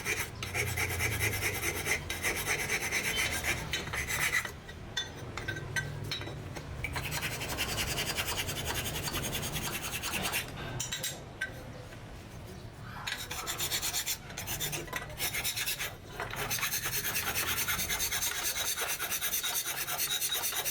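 Rapid rasping, rubbing strokes of abrasive finishing on metal, coming in runs broken by short pauses about 4.5, 10.5 and 16 seconds in.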